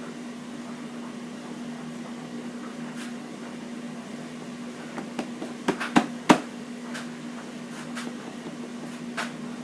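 Steady low hum of a washing machine running in the next room. A little after halfway come a quick cluster of sharp taps and knocks, the loudest about two-thirds in, as a straw stirs and scrapes nail varnish in a container, with a couple more taps near the end.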